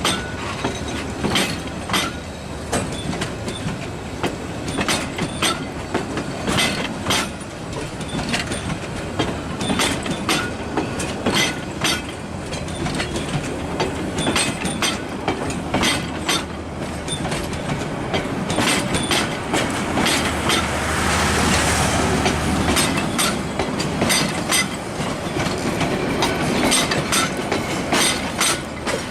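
Train rolling past as it pulls away from a station, its wheels clicking over rail joints in a continuous irregular stream. A louder rushing stretch comes about two-thirds of the way through.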